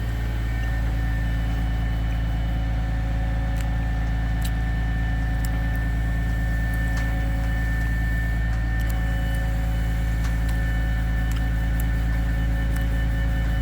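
A feller-buncher boom truck's engine running steadily, with a steady high whine above the engine note and a few faint clicks.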